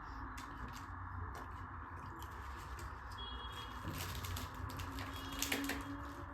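Close-miked eating: chewing mouthfuls of tandoori roti and dal, with many small wet mouth clicks that thicken about four seconds in, over a steady hiss.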